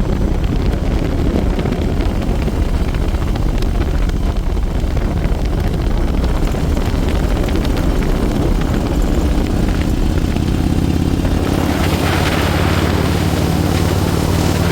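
Motorcycle engine running under way, with wind rushing over the microphone. Near the end the wind noise gets louder and the engine settles into a steadier, higher note.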